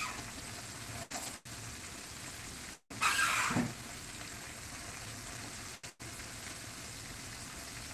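Breaded chicken deep-frying in a pan of hot oil: a steady sizzle that cuts out briefly a few times, with a short louder sound about three seconds in.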